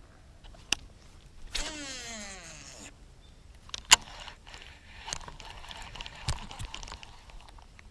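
Fishing reel spool whirring with a falling pitch as a cast goes out and the spool slows. Then a sharp click, followed by irregular clicking and rattling of the reel and rod as line is worked back in.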